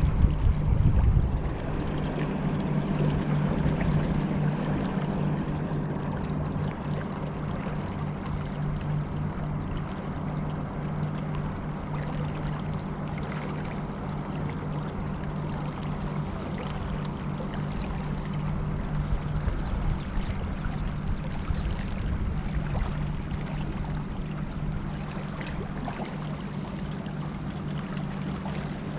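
Motorboat engine running at a steady speed, a constant low hum, with water rushing along the hull. A louder low rumble comes about a second in.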